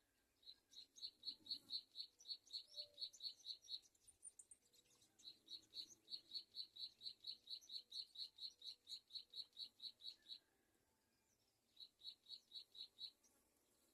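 A bird calling in three runs of rapid, evenly spaced high notes, about four a second, the middle run the longest, with short pauses between.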